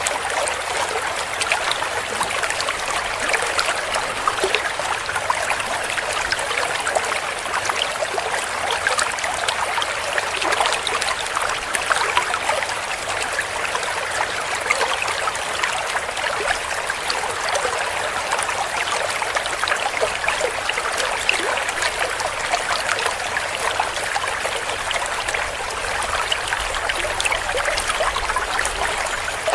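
Shallow stream flowing and gurgling over stones, a steady babble of water with fine splashing trickles.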